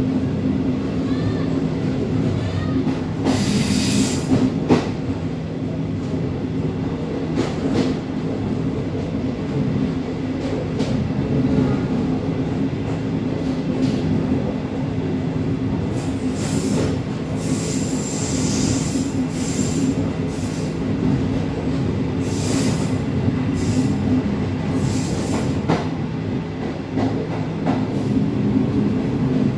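Passenger train running slowly, heard from the back of the last carriage: a steady low rumble and hum, with clacks as the wheels cross rail joints and points. In the second half the wheels squeal briefly several times on the curve.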